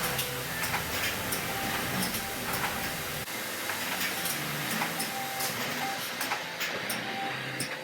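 Beer canning line running: steady machine noise and hiss with many quick clicks and clinks of aluminium cans.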